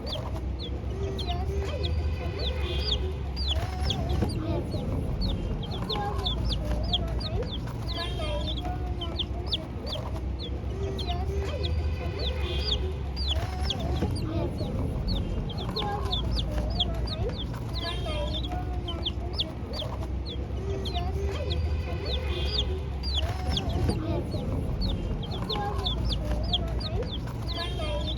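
Domestic chicks peeping continuously in quick, high, falling cheeps, with lower clucking calls mixed in.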